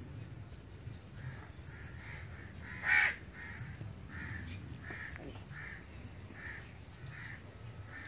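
A bird calling over and over in a run of short calls, about two a second, with one much louder call about three seconds in.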